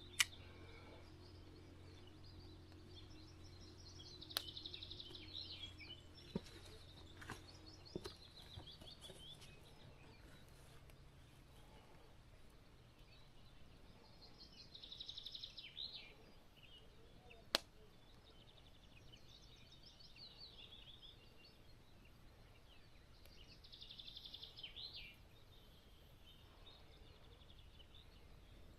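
A songbird singing a short trilled phrase that ends in a flourish, repeated four times several seconds apart, with a few sharp single clicks in between and a faint low hum that fades out early.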